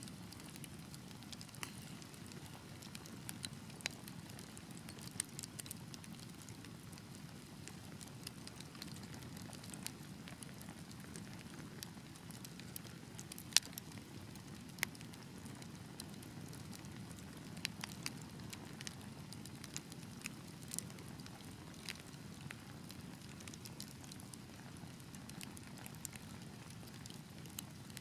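Wood fire burning in a fireplace: a steady low rumble of flames with scattered sharp crackles and pops, one louder pop about halfway through.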